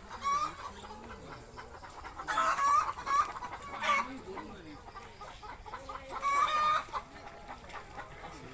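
Chickens clucking in short bursts: a call about a quarter second in, a cluster from about two to four seconds, and another around six to seven seconds.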